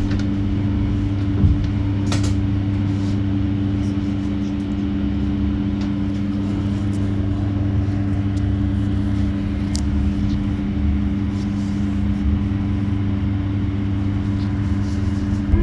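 Cabin noise inside a riding electric bus: a low rumble with a steady two-note electrical hum over it. There is a sharp click about two seconds in.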